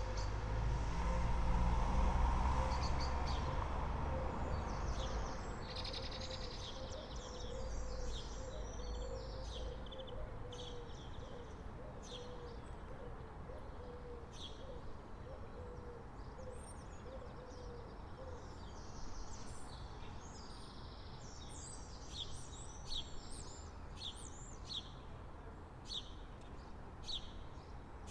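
Birds chirping and singing, many short calls throughout and busier in the second half. A vehicle passes near the start, its low rumble loudest about two seconds in and fading away over the next several seconds.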